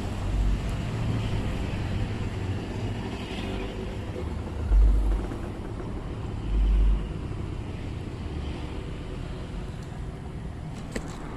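Low rumble of traffic crossing the road bridge overhead, with two dull, deep thumps about two seconds apart near the middle.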